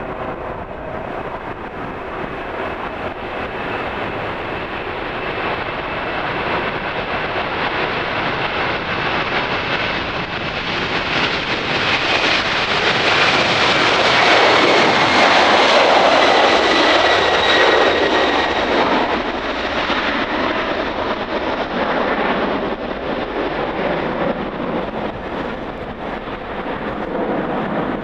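United Airlines Boeing 767-300ER's twin jet engines at takeoff power as the airliner departs and passes by. The noise swells to its loudest about halfway through and then fades, with a high whine that drops in pitch as the aircraft goes past.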